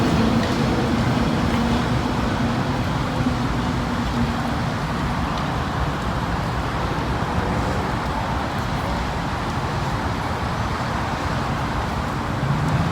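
Steady road traffic noise. A low hum fades out about four seconds in as the train that has just passed moves away.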